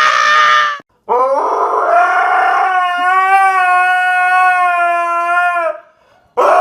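Dog howling: a short loud cry at the start, then one long, steady howl of about four and a half seconds, and another loud cry begins near the end.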